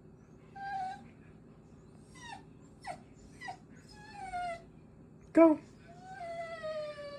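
Small dog whimpering: a string of short, high whines, several falling in pitch, then a longer drawn-out whine near the end. The dog is balking at a jump it is being urged to make.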